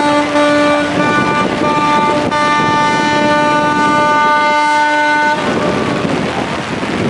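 Ship's whistle of the sail training ship Kaiwo Maru sounding one long blast of about five seconds, several steady tones together, as the ship departs. Wind noise on the microphone runs underneath.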